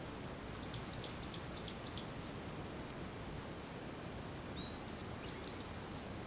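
A small bird calling over a steady hiss of rain: a quick run of five short rising chirps about a second in, then two more chirps near the end.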